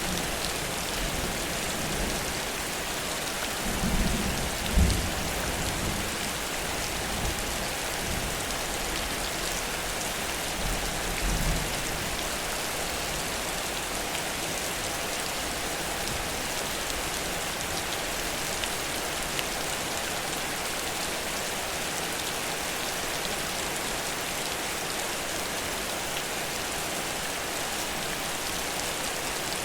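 Heavy rain falling steadily, a dense even hiss. Two short low thuds or rumbles break through, one about four to five seconds in and a weaker one about eleven seconds in.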